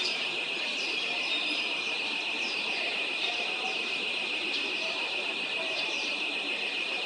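Small birds chirping repeatedly in short, falling notes over a steady high-pitched hiss.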